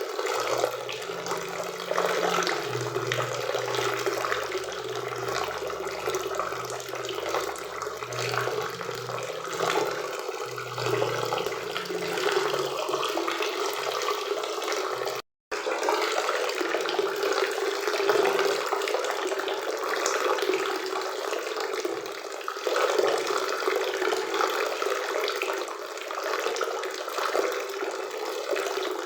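Waterfall and river water rushing steadily, an even roar of falling water. It cuts out for a split second about halfway through, then resumes unchanged.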